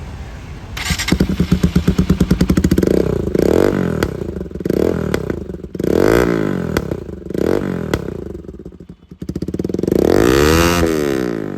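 Bajaj Pulsar NS200's single-cylinder engine through a newly fitted aftermarket exhaust, revved in a series of quick throttle blips and then one longer rev near the end, dropping back toward idle in between.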